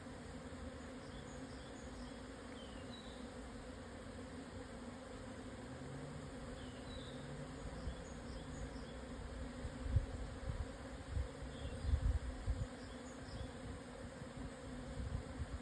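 A swarm of Japanese honeybees buzzing in flight, a steady low hum with an overtone. About ten seconds in, irregular low thumps come through under it.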